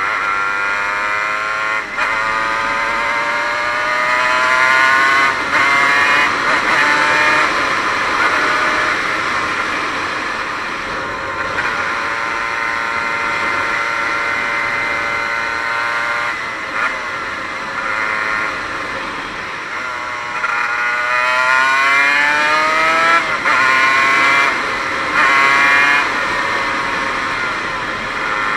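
Single-cylinder two-stroke engine of a 1998 Aprilia RS 125 motorcycle accelerating up through the gears, its note climbing and dropping back at each shift. In the middle it holds a steady cruising note, then it pulls hard up through the gears again. The engine runs without its power valve.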